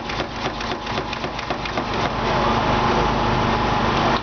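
A small engine or motor running steadily, with a rapid clatter of short clicks and rattles over the first couple of seconds.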